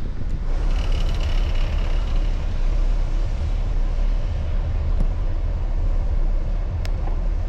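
Wind buffeting a camera microphone on a moving bicycle, a loud, steady low rumble mixed with road noise.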